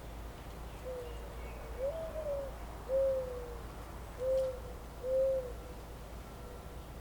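A bird's low, soft hooting or cooing song: five notes over about four and a half seconds, the second rising and then falling and the rest steady or gently falling, heard over a steady low background rumble.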